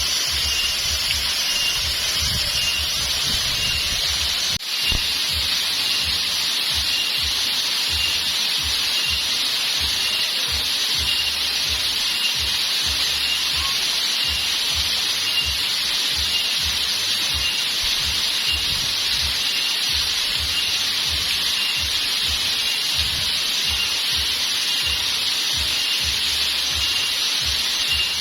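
Steady rush of flowing waterfall water, with a faint high pulse repeating evenly about one and a half times a second over it.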